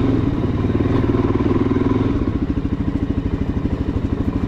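Suzuki DR-Z400SM's single-cylinder four-stroke engine running steadily while riding, its firing pulses plainly separate.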